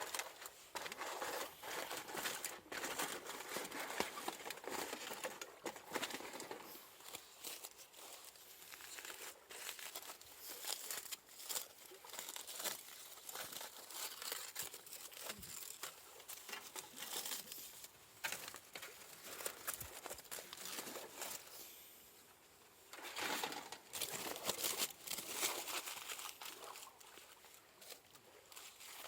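Crinkling and rustling of wrapping being handled around a campfire-baked sweet potato, with irregular crackles throughout and a short lull about three-quarters of the way in.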